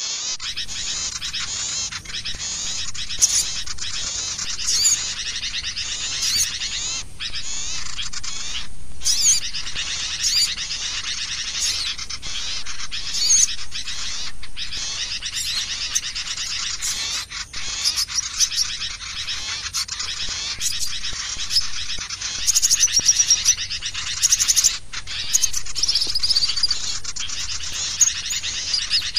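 Small songbirds chattering: a dense, unbroken mass of rapid high chips and twitters, the kind of crecetan chatter played as a lure to draw small birds in.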